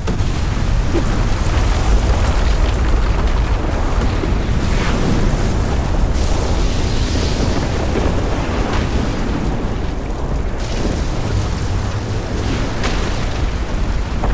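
Sound-designed meteor-shower ambience: a continuous heavy, deep rumble with crackling fire-like noise over it, and three sharp impact cracks about four seconds apart.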